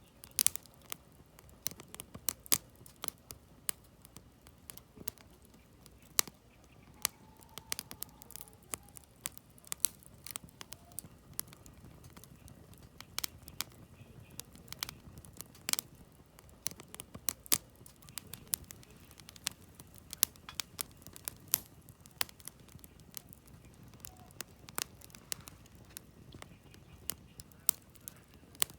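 Wood campfire burning: firewood crackling and popping in frequent, irregular sharp snaps, several a second, over a faint low rush of the flames.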